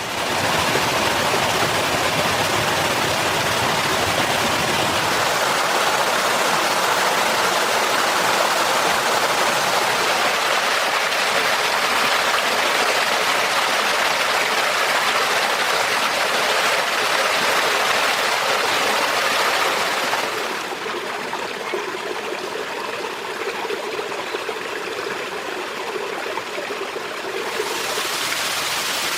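A stream of water rushing steadily. About two-thirds of the way through it becomes a little quieter and duller for several seconds.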